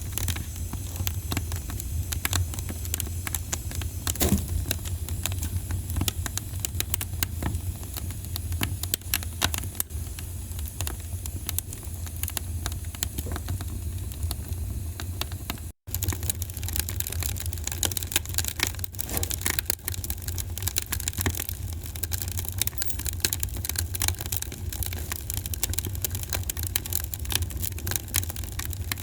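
Wood fire crackling, with frequent sharp pops over a steady low rumble. The sound drops out for an instant about halfway through.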